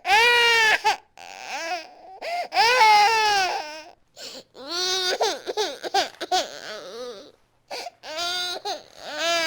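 Infant crying in loud, high-pitched wails, with gulping breaks between cries and a run of shorter sobbing cries in the second half.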